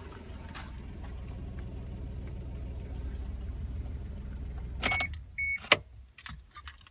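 Suzuki Wagon R RR's 660 cc three-cylinder K6A turbo engine idling with a steady low rumble, then going quiet about five seconds in. Its end comes with a few sharp clicks, the loudest near the end, two short high beeps, and a jangle of keys.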